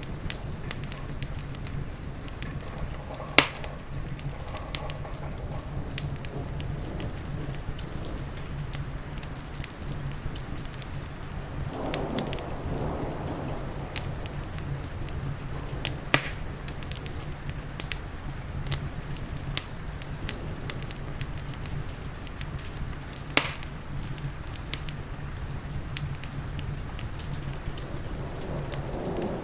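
Wood fire crackling in a fireplace with many small ticks and three louder pops, over a steady rain hiss.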